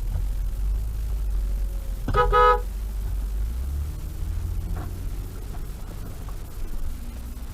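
A car horn sounds once, about two seconds in, a short blast of about half a second, over the steady low rumble of a car driving.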